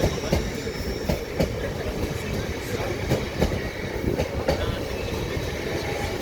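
Train rolling past, its wheels clicking over the rail joints in an irregular series of sharp knocks above a steady rumble.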